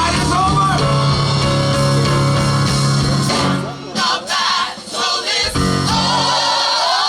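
Live gospel music: a vocal group singing with instrumental backing and a steady bass line, with a few short breaks a little past the middle.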